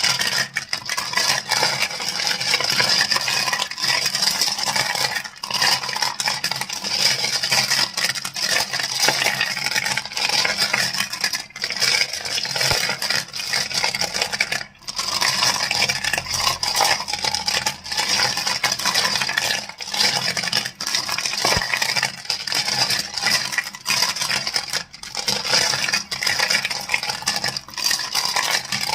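Crystals clicking and clacking in a dense, rapid stream of sharp clicks with only brief pauses.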